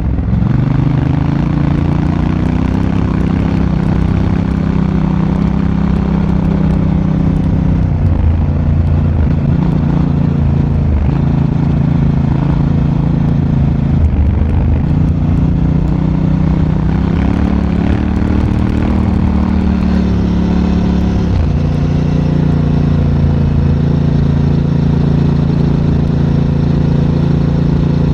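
Honda Africa Twin's parallel-twin engine running under way, heard from on board the motorcycle. The engine note steps down and back up in pitch several times as the rider works the throttle and gears, then holds steady near the end.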